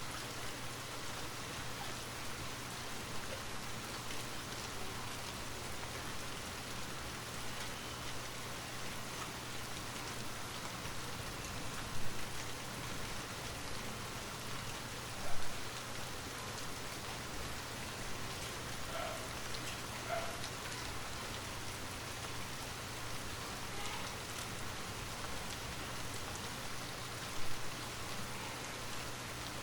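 Steady rain falling, with scattered drips and three short louder drops about twelve, fifteen and twenty-seven seconds in.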